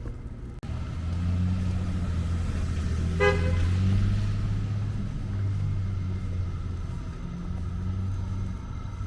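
A motor vehicle's engine running close by with a steady low drone, and a short car horn toot about three seconds in.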